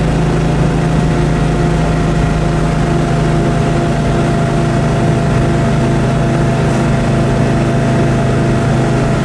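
The 1967 AMC Rambler Rebel drag car's 390 cubic-inch V8, heard from inside the cabin, running at a steady speed with an even, unchanging drone and no revving.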